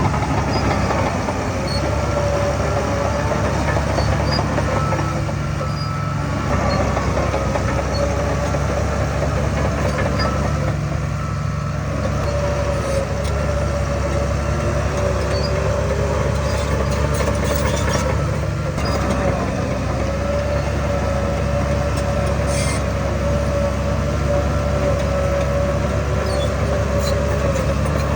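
Heavy earthmoving machinery running steadily under load, a low engine note with a wavering higher whine above it.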